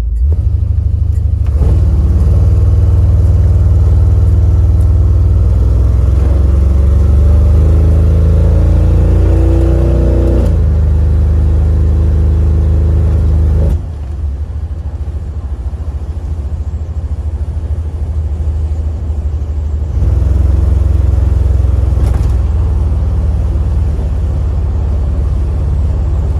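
1968 Chevrolet Impala's engine under way, its pitch rising steadily as the car accelerates and falling back about ten seconds in. It then runs quieter and lower from about fourteen seconds and louder again from about twenty.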